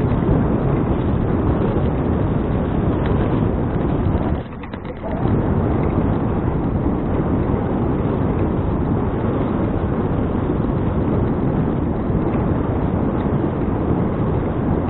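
Wind buffeting an action camera's microphone during a bicycle ride: a steady, loud rushing, with a brief lull about four and a half seconds in.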